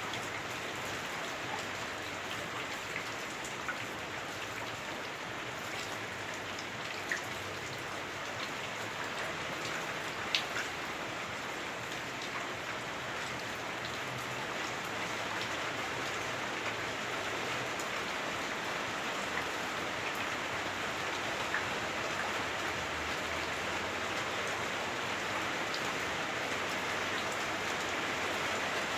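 Heavy rain on a house roof, heard from inside: a steady, dense hiss with a few sharper single drop hits, the loudest about ten seconds in. It grows slightly louder over the second half.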